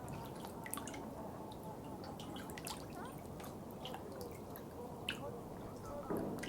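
Running water trickling steadily, with many small drips and droplet ticks scattered over it and a slightly louder gurgle about six seconds in.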